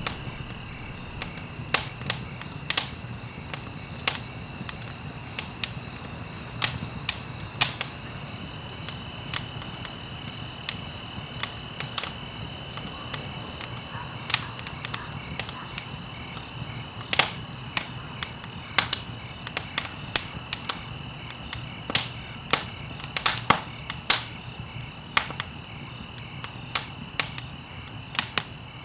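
Wood fire crackling in a fireplace: irregular sharp pops and snaps, several a second at times, over a low steady rumble of the flames, with a faint steady high-pitched tone behind.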